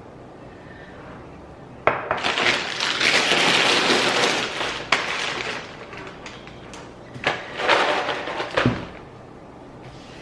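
Food packaging and dishes being handled: a sudden loud crinkling rustle about two seconds in lasting a few seconds, a couple of sharp clicks, then a second shorter burst of rustling near the end.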